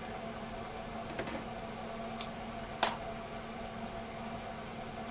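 A few short, sharp clicks from handling metal workpieces and tools, the loudest about three seconds in, over a steady low workshop hum.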